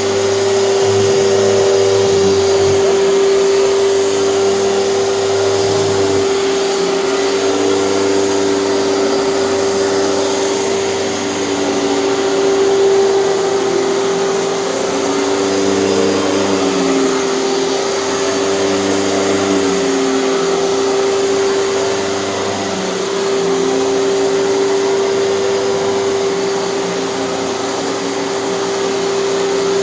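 Hoover TurboPower 5000 canister vacuum cleaner running with its power nozzle: a steady motor whine, with lower tones that waver up and down every few seconds.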